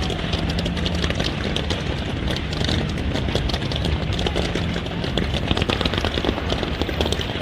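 Fireworks crackling and popping, a dense rapid string of small bangs one after another.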